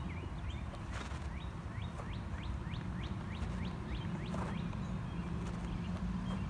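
A songbird singing a quick run of about a dozen repeated rising notes, roughly four a second, that stops about halfway through, over a steady low rumble.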